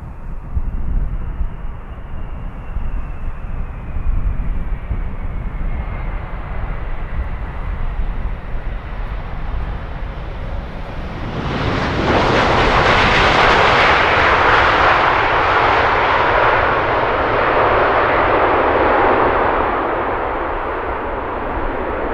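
Jet airliner engines: a faint whine slowly falling in pitch over a rumble, then a sharp rise to loud, steady jet noise about halfway through, which eases a little near the end.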